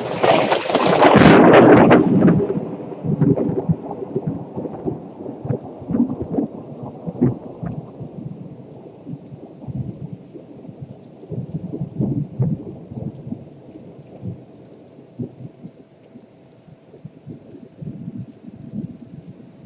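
A close thunderclap: a sharp, loud crack at the start, then thunder rumbling and crackling on for many seconds and slowly dying away, with rain falling.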